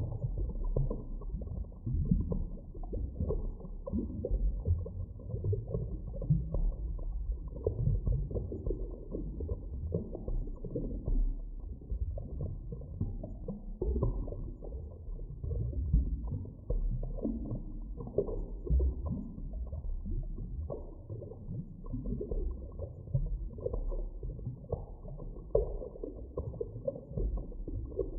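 Muffled underwater ambience: a low, restless rumble of water with irregular surges and nothing in the higher pitches.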